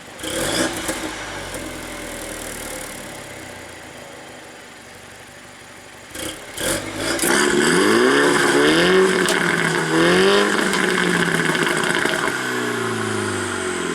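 Mini John Cooper Works turbocharged four-cylinder, exhaust valve open. A short rev near the start fades away, then from about halfway the car accelerates hard: the pitch climbs, drops at an upshift, climbs again, and falls near the end as the car lifts off.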